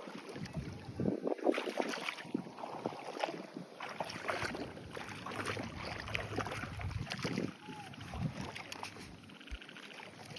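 Water splashing and sloshing in irregular bursts, as when a fishing net or trap is worked in shallow water.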